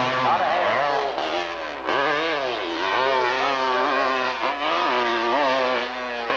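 Hillclimb motorcycle engine revving hard on the climb, its pitch rising and falling again and again as the throttle is worked.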